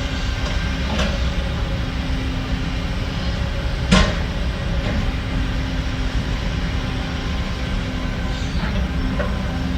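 Heavy earthmoving machinery's diesel engine running steadily, with sharp metallic knocks: one about a second in, a louder one about four seconds in, and lighter clanks near the end.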